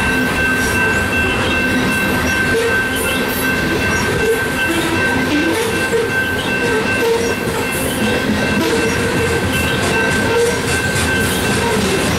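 Coal hopper cars of a unit freight train rolling past over a level crossing: a continuous rumble and clatter of steel wheels on rail, with a steady high-pitched ring over it.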